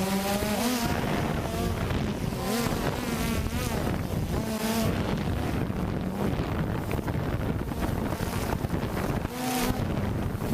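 Drone's propellers buzzing steadily with wind noise on the microphone, the motor pitch wavering up and down as it flies.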